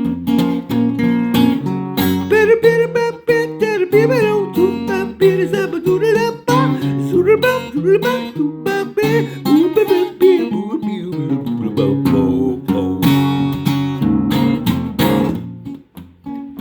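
Acoustic guitar strumming and picking chords in an instrumental break of a song, with a bending, wavering lead melody played over it through the middle.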